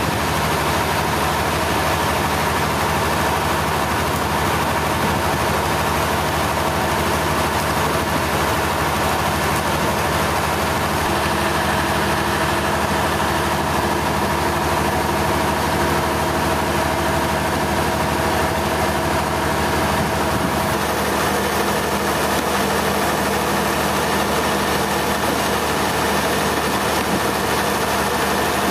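Sawmill machinery running steadily: a loud, constant mechanical drone and hum, with a slight change in its tone about 21 seconds in.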